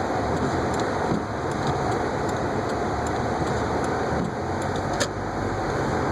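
Car driving through snow, heard from inside: steady engine and road noise with the hiss of tyres on snowy, slushy pavement. A sharp click about five seconds in.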